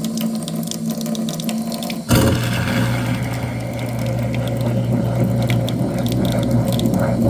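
Thin stream of tap water trickling into a sink drain; about two seconds in a garbage disposal switches on with a sudden jolt and then runs with a steady low hum, grinding the foaming disposal cleaner with the water.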